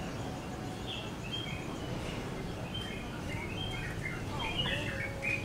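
Birds chirping: many short, quick high calls scattered throughout, over a steady low background rumble.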